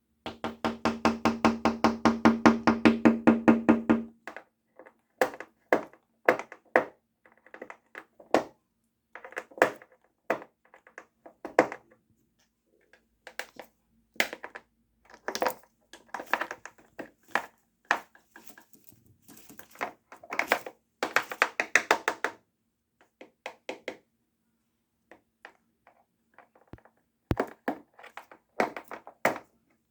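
African grey parrot knocking its beak against a hard surface like a woodpecker: a fast, ringing drum-roll of knocks for about the first four seconds, then irregular bursts of taps with short pauses between them.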